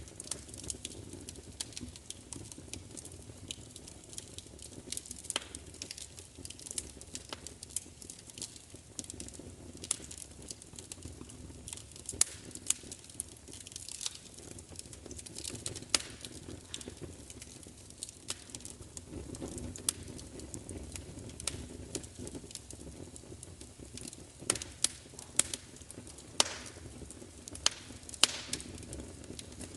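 Wood fire crackling, with irregular sharp pops and snaps over a soft low rumble of burning.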